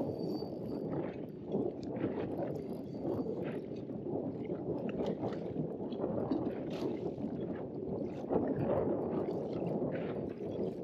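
Choppy lake water lapping and splashing against an inflatable boat's hull in the wind, with irregular small splashes throughout.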